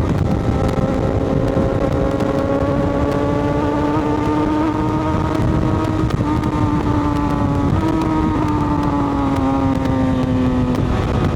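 Motorcycle engine running at a steady cruise with a dense low rumble underneath. The engine note holds fairly even, drifts slightly, and eases down a little in the last few seconds.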